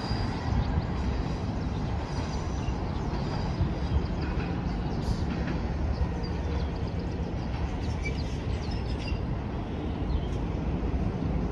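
A train running: a steady low rumble with faint scattered clicks and squeaks.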